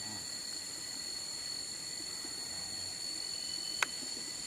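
Rainforest insect chorus: several insects each holding one steady high pitched drone, layered over one another. A single sharp click sounds near the end.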